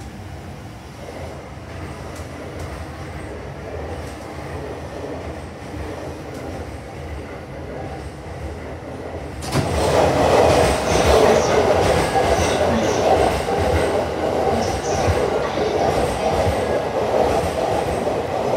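Inside an E233 series commuter train car pulling into the station: a low rumble, then about halfway through the doors open and a much louder train running noise from the platform side comes in suddenly, with some wheel squeal.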